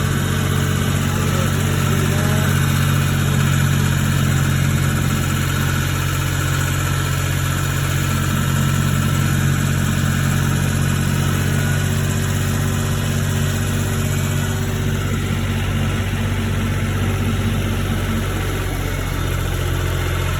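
Farm tractor engine running steadily while under way, a constant low drone.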